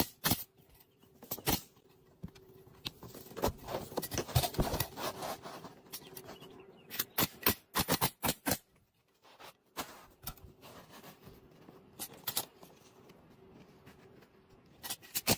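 Irregular clicks, knocks and scraping of asphalt shingles being handled and laid on a roof, with clusters of sharp knocks about four, seven and twelve seconds in.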